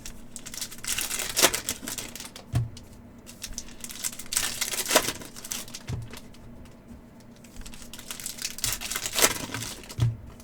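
Card pack wrappers crinkling and tearing open, with quick clicks of cards being flicked through by hand and three soft thumps on the table about every three and a half seconds.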